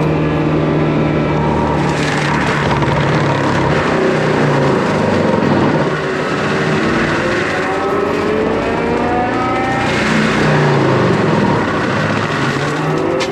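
Skid steer's diesel engine running hard with a forestry mulcher attached, its pitch dipping and climbing back several times as the load changes.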